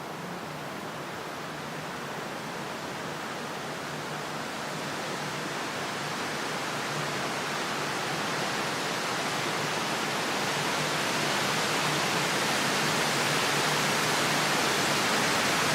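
A steady rushing noise with no distinct events, growing gradually louder.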